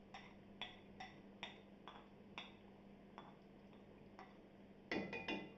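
Spoon clinking against a karahi while stirring ginger-garlic paste into hot oil and onions, light knocks about twice a second with a louder flurry of clinks near the end.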